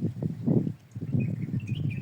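A quick, irregular run of dull knocks and scrapes, loudest in the first half, with a bird chirping faintly in the second half.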